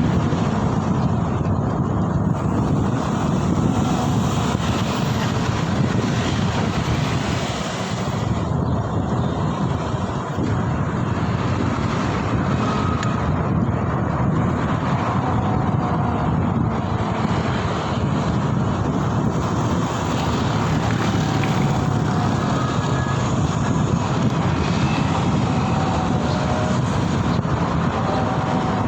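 Wind rushing over the microphone of a moving rider, with a steady rumble of road and traffic noise and a few faint short tones from passing vehicles.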